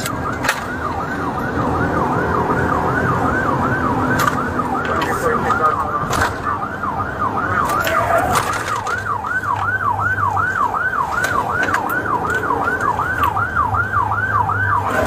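Police car siren in fast yelp mode, its pitch sweeping up and down about three times a second, over the steady hum of the moving cruiser.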